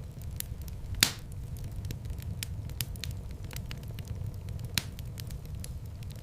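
Wood fire in a fireplace crackling, with many small ticks over a steady low rumble of flame. Two louder pops stand out, about a second in and again near five seconds.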